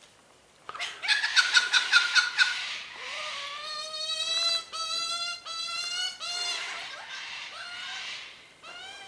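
Wild birds calling: a quick run of harsh, repeated notes about a second in, followed by several long, clear, ringing calls.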